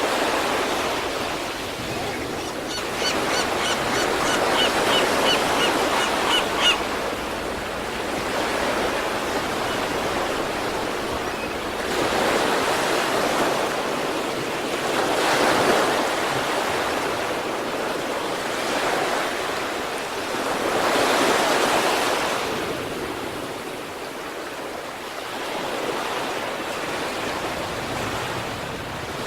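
Sea waves breaking and washing up the shore, the surf swelling and falling every few seconds. A short run of high, evenly spaced chirps sounds over the surf about three to seven seconds in.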